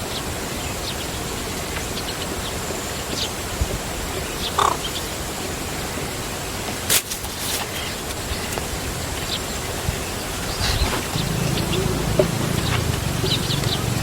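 Outdoor ambience: a steady hiss with scattered short, high chirps from small animals or birds, a sharp click about seven seconds in, and a low rumble that joins near the end.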